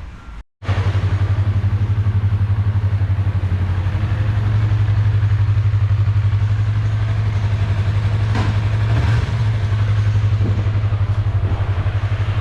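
Motorcycle engine idling steadily, with an even fast pulse. It comes in abruptly about half a second in.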